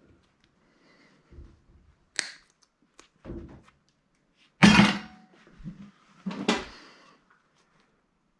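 Knocks and clunks of a handheld retail scanner's parts being handled during a teardown: about five separate hits with pauses between them, the loudest a little past halfway.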